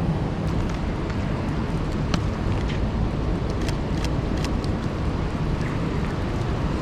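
Steady rushing noise of a city street in heavy rain, with traffic, and scattered sharp ticks.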